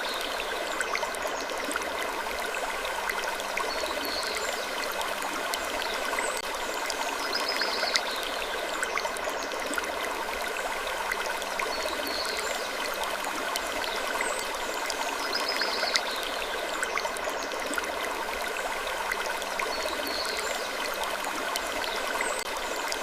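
Soft wood creaks over a steady water-like hiss, with a creak recurring about every four seconds in a repeating loop.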